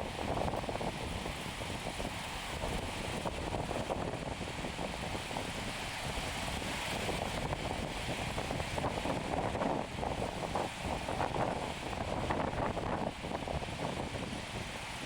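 Strong, gusty wind rushing over the microphone ahead of an approaching typhoon, with ocean surf beneath it.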